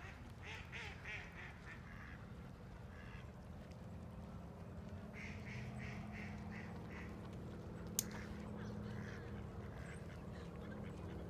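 Ducks quacking in quick runs of about half a dozen quacks, three runs in all, with a single sharp click about eight seconds in over a steady low background hum.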